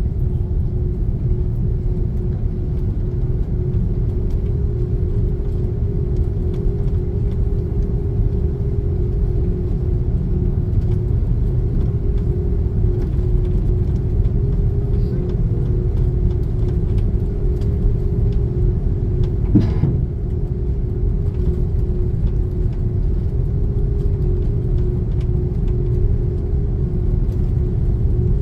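Steady low rumble and engine hum inside the cabin of an Airbus A330-300, even in level, with one short knock about twenty seconds in.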